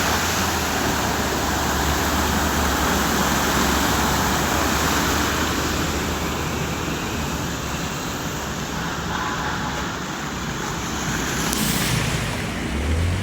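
Steady rush of floodwater with a low engine hum underneath, a brief sharper noise near the end.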